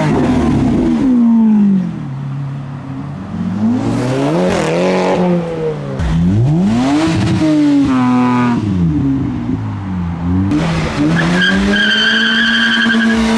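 Performance car engines revving repeatedly, the pitch climbing and falling with each blip of the throttle. A steady high-pitched tone is held for a second or two near the end.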